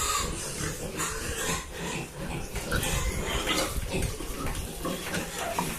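Pigs grunting, a continuous run of short, irregular grunts.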